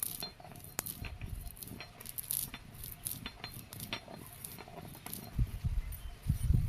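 Scattered light clicks and taps, with a cluster of low thumps near the end.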